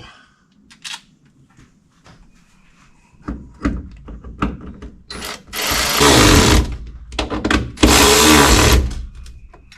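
Power drill driving in screws in two short runs of about a second each, with clicks and knocks of handling between them.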